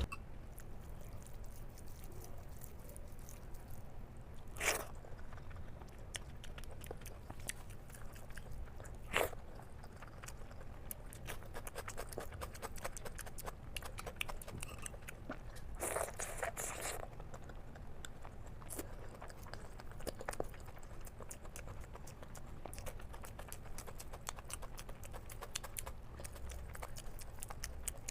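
A person chewing and eating a mouthful of masala egg curry with rice close to the microphone: a steady run of small wet mouth clicks and smacks, with two sharper clicks about five and nine seconds in and a short louder rustle around sixteen seconds.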